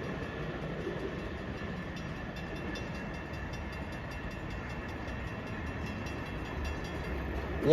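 Long Island Rail Road M3 electric multiple-unit train rolling past: a steady rumble of wheels on rail with faint regular clicking.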